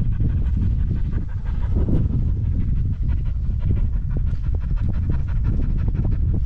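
German wirehaired pointer pup panting hard in quick, even breaths, as a hot dog does after working; her handler takes her for overheated.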